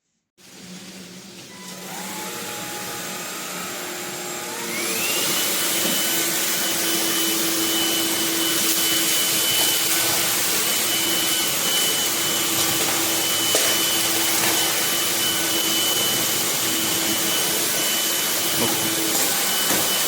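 MONSGA cordless stick vacuum's brushless motor switching on about half a second in. It steps up in speed about two seconds in and again near five seconds with a rising whine, then runs steadily with a high whine over a rushing airflow.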